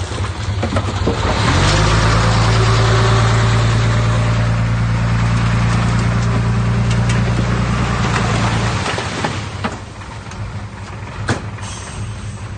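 Heavy diesel earthmoving machine engine revving up about a second and a half in, running steadily under load, then easing back down to a lower idle near the end, with a few sharp knocks as it settles.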